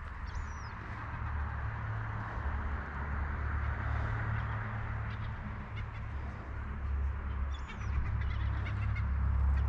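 Outdoor ambience: a steady low rumble under a broad hiss, with a couple of faint, short high-pitched bird calls, one about half a second in and one near the end.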